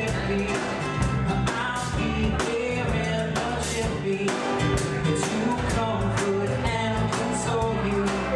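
Live acoustic rock band playing: a plucked-string lead over bass guitar and a drum kit keeping a steady beat.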